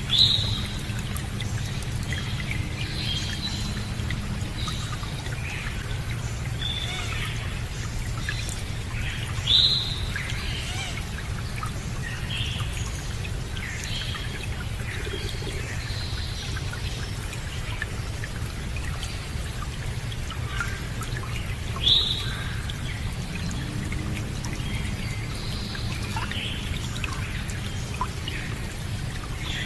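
Water running steadily, like a small stream, with birds chirping. A sharper bird call that drops in pitch stands out above the rest about every ten to twelve seconds.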